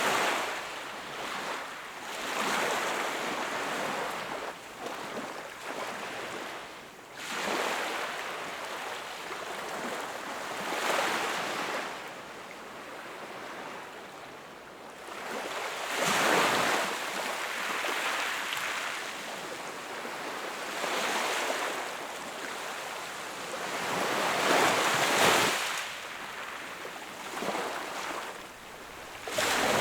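Small waves breaking on a shore and washing back, a hiss that swells and falls every few seconds, with the strongest breaks about 16 and 25 seconds in.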